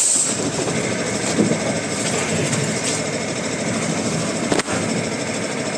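Woodworking machinery running with steady, dense mechanical noise, dipping briefly about four and a half seconds in.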